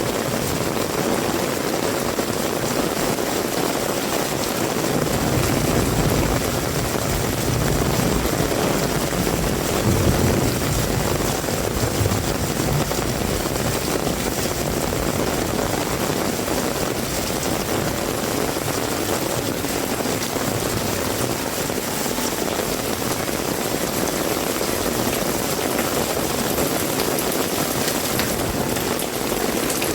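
Heavy rain falling in a steady hiss. A low vehicle rumble builds about five seconds in, peaks around ten seconds and fades away as the vehicle passes.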